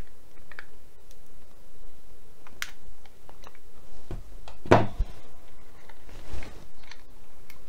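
Small plastic bike computer being handled and pried open to get at its battery: a few separate plastic clicks and knocks, the loudest a little past halfway.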